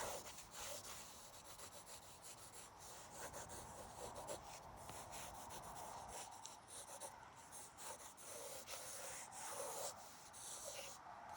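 Pen scratching faintly on paper in many short, quick sketching strokes.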